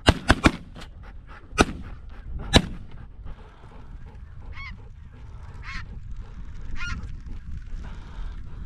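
Shotgun shots, three in quick succession at the start and two more single shots about a second apart. After that comes steady wind rumble with single snow goose honks about once a second.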